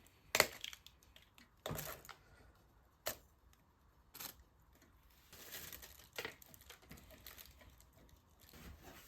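Objects being handled: a few separate sharp knocks and clicks, the loudest about half a second in, with rustling and crinkling in between.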